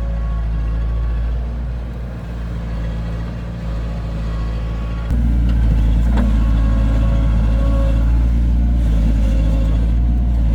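Heavy diesel engine of a construction machine running steadily, with a deep, even drone. About halfway through it suddenly gets louder and stays there, and a single short click is heard just after.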